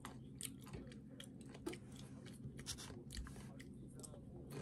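A person chewing a mouthful of seafood close to the microphone: irregular sharp mouth clicks, several a second, over a low steady hum.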